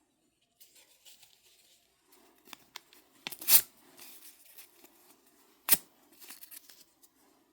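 Sheets of paper being torn by hand, with rustling and handling between two sharp rips, the loudest about three and a half seconds in and another just under six seconds in.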